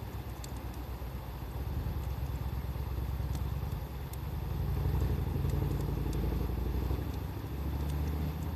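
Wood campfire crackling with sparse small pops, under a louder low engine rumble of a passing motor vehicle that swells about two seconds in and again near the end.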